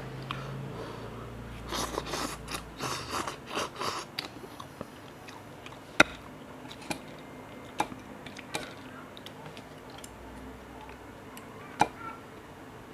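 Someone eating cup noodles: a run of close chewing and biting noises over a couple of seconds, followed by a few scattered sharp clicks.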